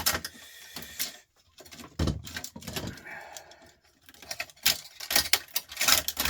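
Small parts of a dismantled record player being handled and set down: a run of light clicks and knocks of metal and plastic pieces, with a short scrape about three seconds in.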